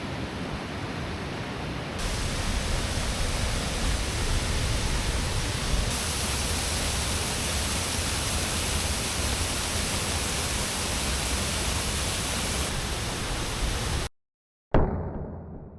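Waterfall: a steady rush of falling water. Its level and tone change abruptly a few times, as from one cut to the next. Near the end it drops out to silence, then comes a sharp click that fades away.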